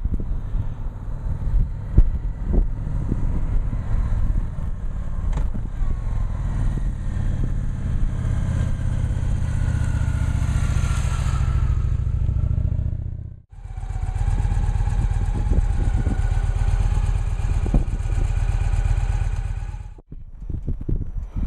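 Victory Cross Country motorcycle's V-twin engine running as the bike rides toward and up close, its sound building with a pulsing rumble. It cuts off abruptly about two-thirds of the way through, is followed by a steadier, even-pitched run, and cuts off again shortly before the end.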